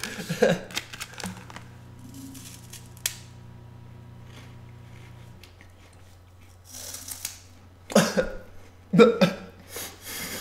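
Crunching and chewing of an Umaibo puffed corn snack stick close to the microphone, in scattered crisp crackles. A low steady hum stops about halfway through, and a few short muffled vocal sounds come near the end.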